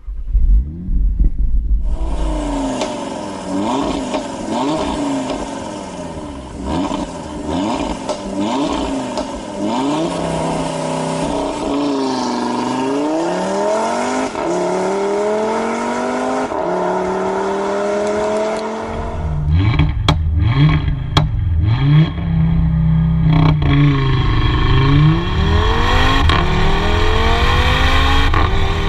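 Audi RS3's turbocharged 2.5-litre five-cylinder engine revving and accelerating. Its pitch climbs and falls again and again through revs and gear changes. From about two-thirds of the way through, a heavy low road-and-wind rumble and a few sharp clicks come in, and the engine pitch keeps rising.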